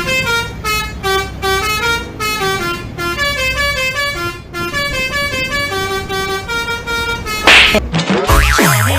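Multi-tone telolet air horn playing a quick tune of short stepped notes, about four a second. Near the end comes a loud hissing burst, then a low falling sweep.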